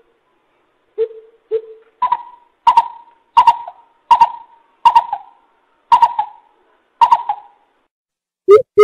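Coucal hooting: two low hoots, then a run of about seven higher, evenly spaced hoots. A louder series of low hoots begins near the end.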